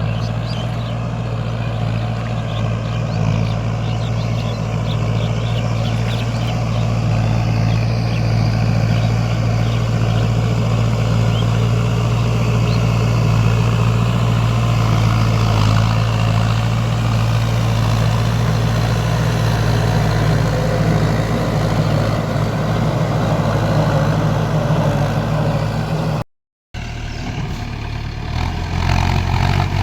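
Mahindra 60SDI tractor's diesel engine running steadily. It drops out for a moment near the end and comes back at a slightly different pitch.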